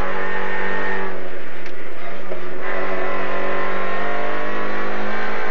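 VW Polo 1.4 16V rally car's four-cylinder engine pulling hard at high, nearly steady revs, heard from inside the cabin. It eases briefly about two seconds in, then resumes.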